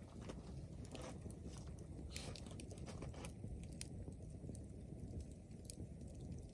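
Wood campfire crackling: scattered sharp pops and snaps over a steady low rumble of burning.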